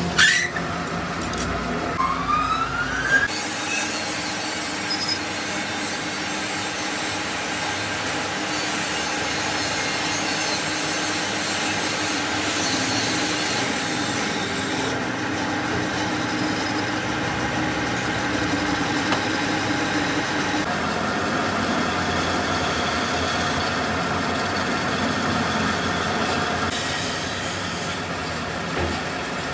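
A power tool working metal: its motor spins up with a rising whine, then a steady abrasive scraping noise runs on, changing in character abruptly several times as the tool meets the workpiece differently.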